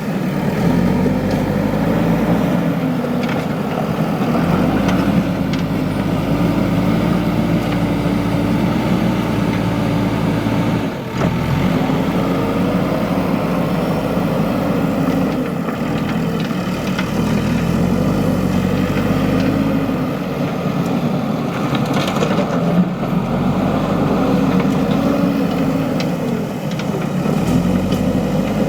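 Diesel engine of a JCB 3DX backhoe loader running as it loads sand, its pitch rising and falling every few seconds as the load changes, with a brief break about eleven seconds in.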